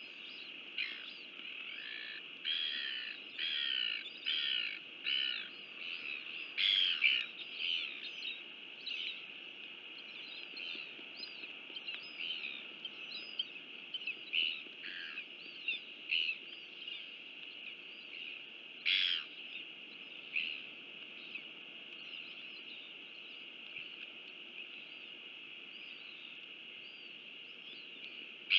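Birds chirping and calling over a steady high-pitched background chorus. There is a run of louder calls in the first third, and a few louder single calls later on.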